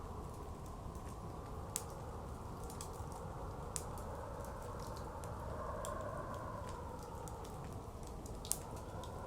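Wood fire crackling, with scattered sharp pops, the loudest about two seconds in and near the end, over the steady low rush of blizzard wind, which swells a little around the middle.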